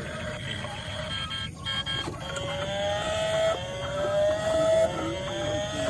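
Toy car engine sound effect revving three times: a pitched tone that rises, breaks off and starts low again, starting about two seconds in.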